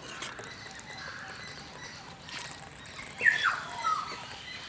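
A bird gives a short falling chirp about three seconds in, then a shorter, lower note, over a faint outdoor background hush. A faint knock comes just before.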